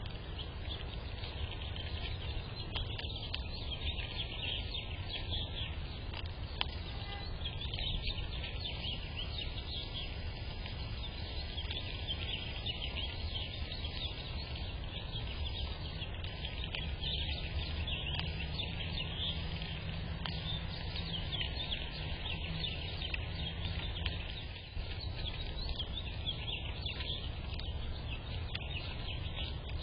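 Small birds chirping continuously, high and quick, over a steady low background rumble.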